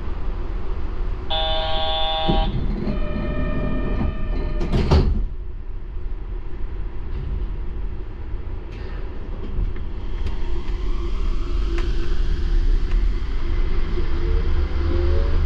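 Door chime on a Yurikamome rubber-tyred automated train, two chime phrases in turn, then the doors shut with a thump about five seconds in. The train then pulls away with a low rumble and a motor whine that rises in pitch toward the end.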